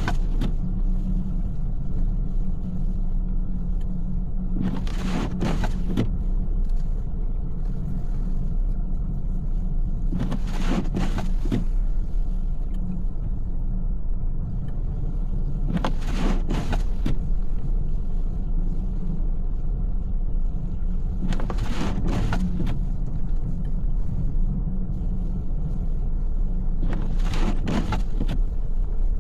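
Steady low road and engine rumble inside a car's cabin while driving. Windshield wipers on an intermittent setting sweep across the glass about every five and a half seconds, each sweep a quick double swish.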